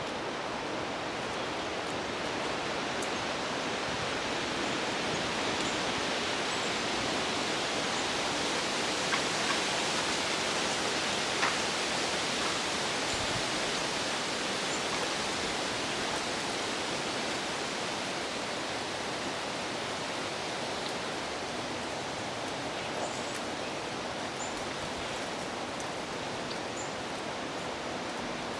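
Wind rushing through the trees, a steady noise that swells in the middle and eases off again, with a few faint ticks about ten seconds in.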